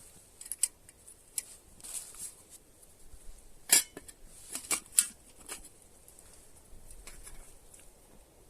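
Irregular light clicks and clinks of hard objects being handled, the loudest a cluster of three sharp knocks about four to five seconds in.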